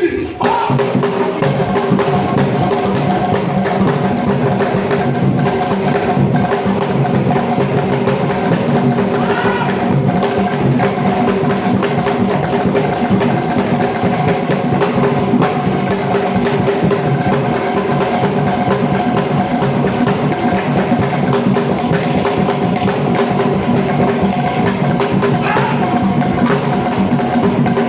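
Loud, continuous drum music with sharp wood-block-like strikes, played as accompaniment to a stage performance, with a few held notes running under the beat.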